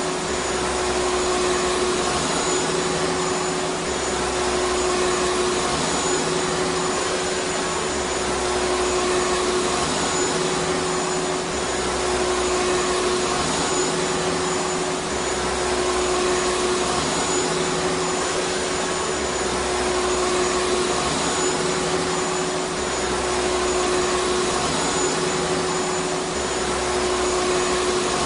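Vacuum cleaner running steadily: an even rushing noise with a constant motor whine, and a low part of the sound that swells and fades about every two seconds.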